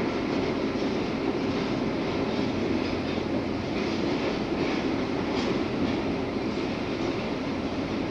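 Freight train cars rolling past: a steady rumble of steel wheels on the rails with faint light clicking.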